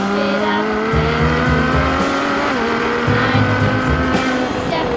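Race-car engine sound effect, its pitch rising slowly in long drawn-out revs with a short dip about two and a half seconds in, over background music with a bass line.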